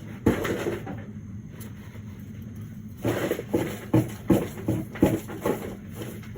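A sharp knock near the start, then a quick run of about seven thuds, roughly two to three a second, over a steady low hum.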